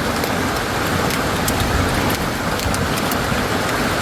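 Heavy rain pouring down in a storm: a steady, loud rush with scattered sharp taps of drops striking nearby surfaces.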